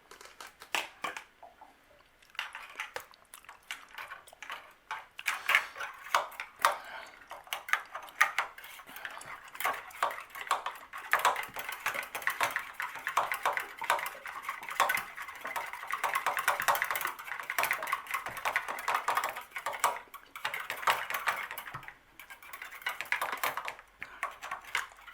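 Wire coat hanger poked and scraped inside a water heater's drain valve, a quick, irregular run of small metal clicks and scrapes. The valve is clogged with sediment and the wire is being worked to clear it. The clicking is sparse for about two seconds, then nearly continuous.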